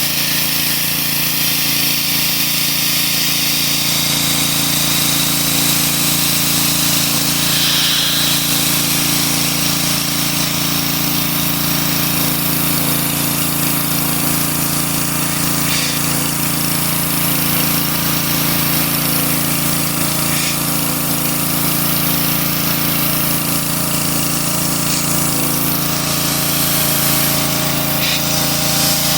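A machine running steadily without a break: a motor-driven tool with a steady low hum under a loud, even hiss.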